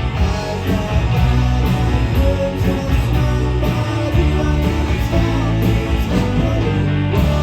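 Live rock band playing, with electric guitars over a steady drum beat of about two cymbal strokes a second. Near the end the drums stop and a held chord rings on.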